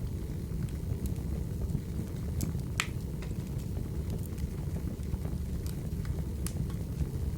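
Firewood burning: a steady low rumble of the fire with scattered crackles and pops, one sharper pop about three seconds in.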